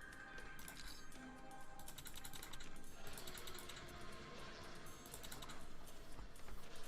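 Soft background music from an online casino game, with a busy run of light, rapid clicks over it.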